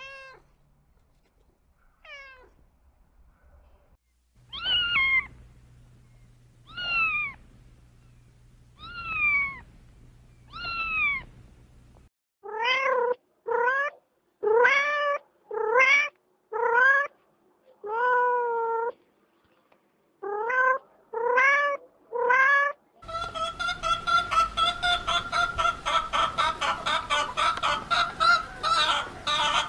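Domestic cats meowing: a string of separate meows, several long and falling in pitch, then shorter ones that stop abruptly. The last several seconds are a continuous rapid stuttering run of calls.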